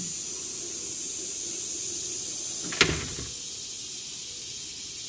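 A door swinging shut and closing with a single sharp bang nearly three seconds in.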